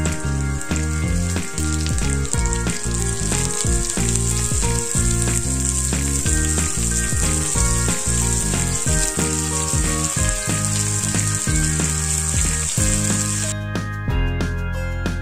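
Chicken pieces and sliced onion sizzling in a hot oiled wok as they start to sauté, over background music. The sizzling cuts off abruptly near the end, leaving only the music.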